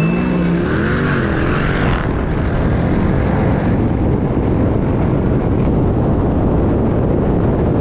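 Supercharged Hemi V8 car at full throttle, heard from a camera mounted on the car, with heavy wind noise. The engine note climbs and wavers through the first couple of seconds, then settles into a loud, steady din of engine and wind.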